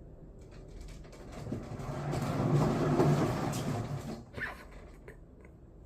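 Cat exercise wheel turning, a low rolling rumble that builds up over about two seconds, peaks, and dies away as the wheel slows, followed by a couple of light clicks.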